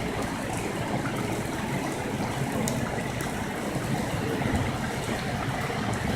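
Heavy rain falling steadily, with a few sharp ticks of single drops striking close by.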